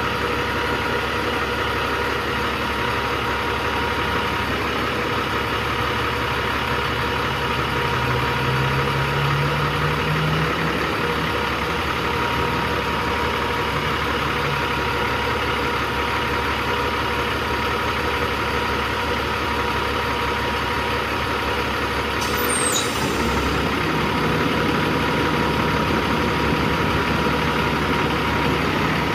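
Peterbilt 357's 15-litre six-cylinder diesel engine running steadily at idle. Its pitch rises briefly about eight seconds in, and a short high-pitched sound comes a little over twenty seconds in.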